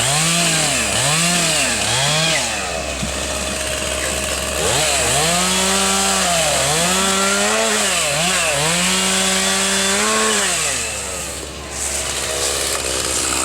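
Chainsaw engine revving: four quick throttle blips, then held at high revs several times with brief dips, dropping back toward idle near the end.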